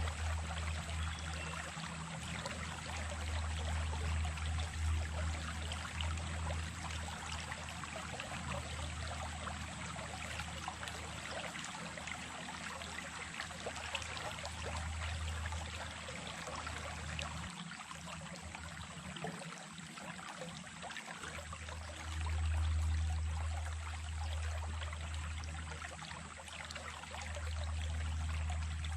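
Small stream running over stones: a steady, unbroken rush and babble of water. A low rumble underneath weakens for a few seconds past the middle and then comes back, and a thin steady high tone runs throughout.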